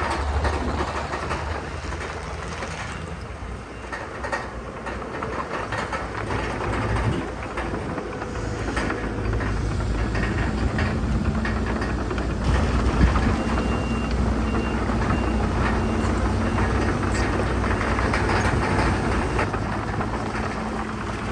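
Diesel engines of heavy earthmoving machinery running steadily, with scattered metallic clanks and rattles. About two-thirds of the way through, a reversing alarm beeps several times.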